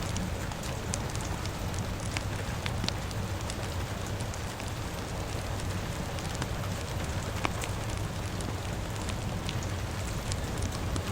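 Steady rain falling together with a wood fire crackling, with scattered sharp pops and snaps through the even hiss.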